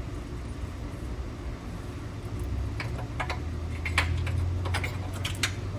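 A run of light clicks and clinks, as of hand tools and loose bolts being handled, bunched in the second half, over a steady low hum.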